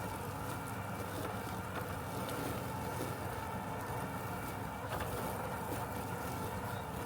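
Robotic lawn mower running with a steady mechanical hum and a constant-pitch motor whine.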